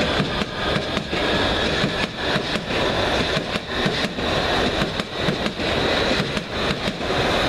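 Electric passenger train running through the station, with a steady rumble and many sharp wheel clicks over the rails.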